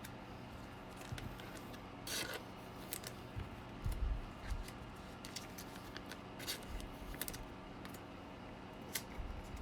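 Baseball trading cards being handled and slid against each other: a run of short, soft scrapes and rubs, the longest about two seconds in.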